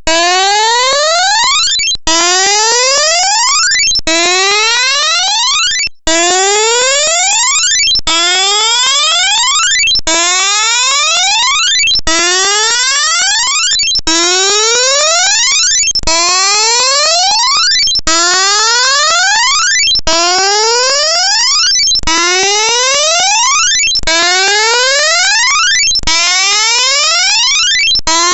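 Electronic music track: a buzzy synthesized tone with many overtones sweeping upward in pitch, starting over every two seconds.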